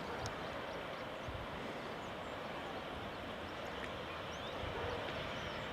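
Steady outdoor background noise, a low uneven rumble, with a few faint high chirps.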